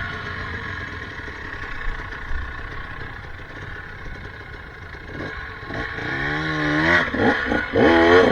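Off-road motorcycle engines running, with the throttle blipped repeatedly from about five seconds in, the pitch rising and falling and the sound getting louder toward the end.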